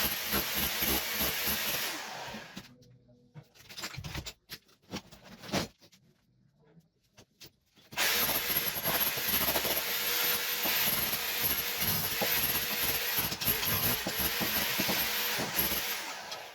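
Power tool running as old ceramic wall tiles are stripped from a kitchen. It runs for about two and a half seconds, stops for several seconds with a few separate knocks, then runs again until near the end.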